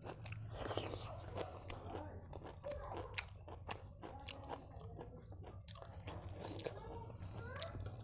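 Close-miked chewing of rice and buffalo meat eaten by hand: wet smacking mouth sounds with many small clicks, going on throughout.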